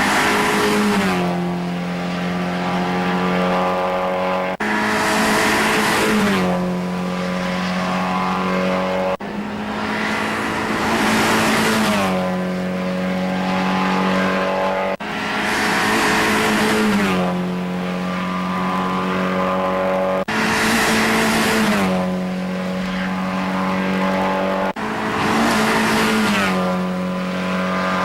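Mazda MX-5 race cars passing at speed one after another, each engine note dropping in pitch as it goes by. The sound cuts off abruptly and restarts every four to six seconds.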